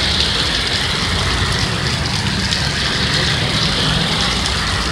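Heavy rain falling steadily, with SUVs driving past on the wet street, their tyres running through the water on the road.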